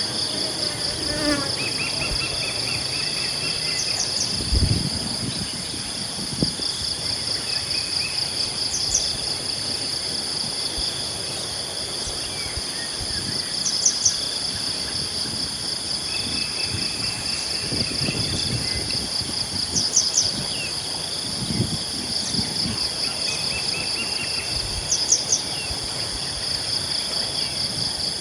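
Steady chorus of insects, a continuous pulsing trill, with birds calling now and then: short clusters of high chirps every few seconds and a series of falling notes about a second in. A few soft low thuds come in around five seconds and again around eighteen to twenty-two seconds.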